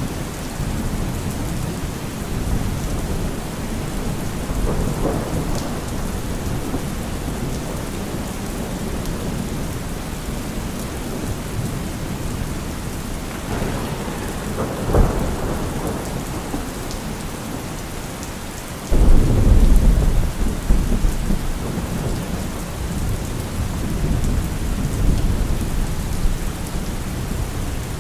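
Heavy rain falling steadily in a thunderstorm. About halfway through a short sharp crack of thunder sounds, and a few seconds later a loud low rumble of thunder breaks in suddenly and rolls on for several seconds.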